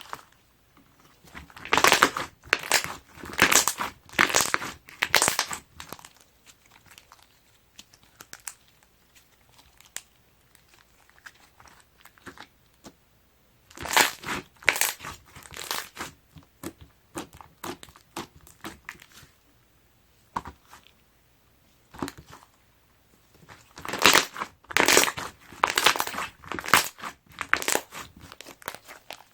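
Hands squishing and stretching clay-mixed slime, which crackles and pops in dense bouts, three times, with quieter handling in between.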